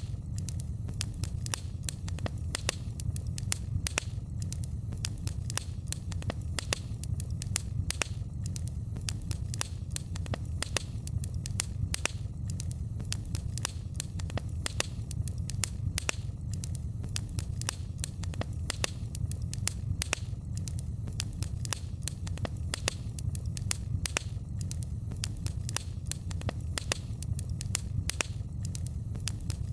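Fire burning in a fireplace, crackling with many sharp pops, several a second, over a steady low rumble.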